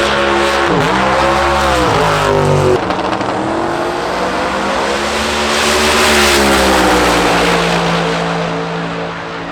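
A drag-race car's engine revving hard, its pitch dropping and climbing twice in the first few seconds, rising again about five seconds in, then settling and fading near the end.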